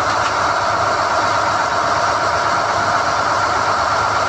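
SDH-1600 core drilling rig running steadily while pulling NQ drill rods from the hole, a dense, unchanging mechanical noise.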